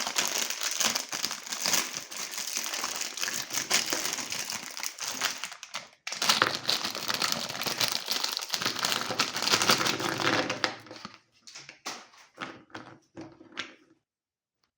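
Meat grinder crushing cookies: a dense run of crunching and crackling with a short break about six seconds in, then thinning to scattered crackles that die away near the end.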